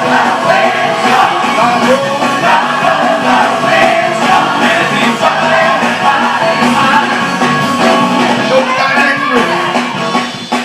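Live gospel music: a full band playing an upbeat praise-break groove, with singing over it.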